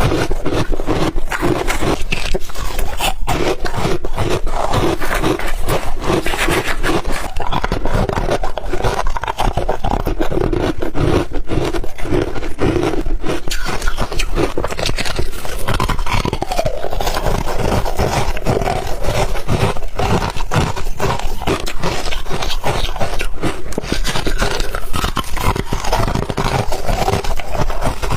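Ice being chewed, with dense, irregular crunches and cracks going on without a break.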